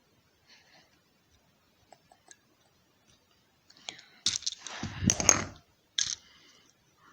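Small plastic clicks and clatter from handling a toy train engine and its parts, faint at first, then a run of sharp clicks with a louder rustling bump about five seconds in.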